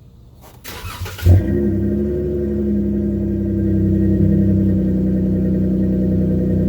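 2014 Dodge Charger's 3.6-litre V6 starting: a short spell of cranking, then it catches with a brief rev flare about a second in and settles into a steady idle, heard through a Magnaflow Rumble muffler and quad tips.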